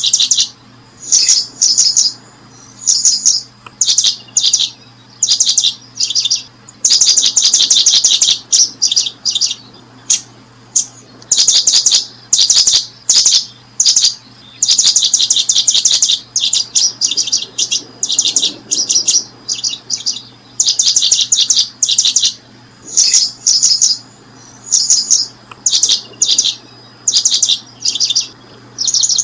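Bird chirping in short, rapid trains of high, thin notes, the bursts repeating every second or two, over a faint low hum.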